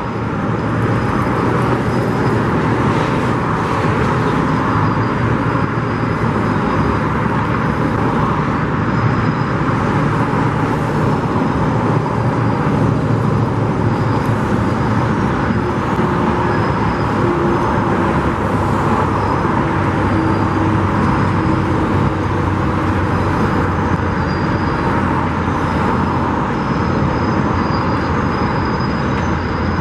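Steady road traffic noise: the continuous rumble and hiss of passing vehicles, with no breaks.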